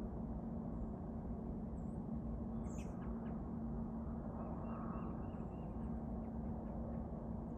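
A steady low background rumble with a constant hum, and a few faint, short bird chirps scattered through it.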